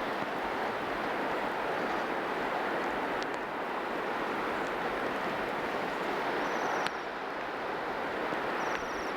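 Steady rushing background noise, with two brief, high, thin trilled calls near the end, typical of Bohemian waxwings.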